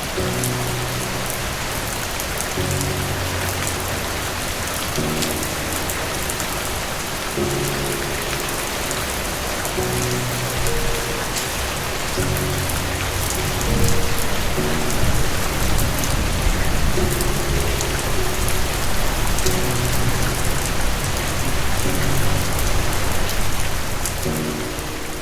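Steady, even rain falling, with soft sustained low music chords coming and going underneath. About halfway through, a deeper low rumble swells in, typical of distant thunder.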